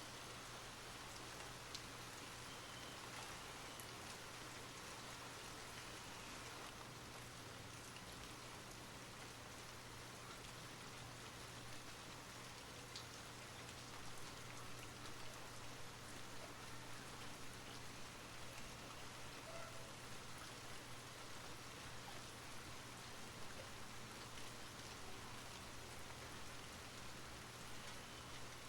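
Steady rain falling, an even hiss with faint scattered drop ticks and a steady low hum underneath; the rain grows a little more uneven about halfway through.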